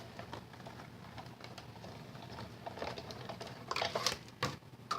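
Light handling of paper and crafting tools on a table: soft rustling with a few small clicks and taps, more of them in the second half.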